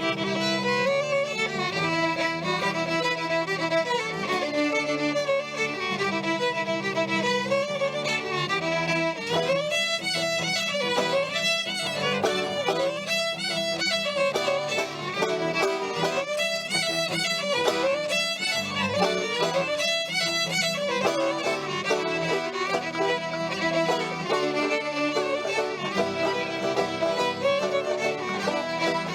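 Fiddle playing a lively traditional tune over a steady lower string accompaniment.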